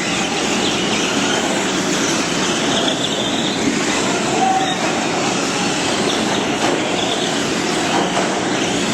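A pack of radio-controlled stock-class off-road trucks racing on a dirt track: a steady, dense mix of small motors whining and tyres working the dirt.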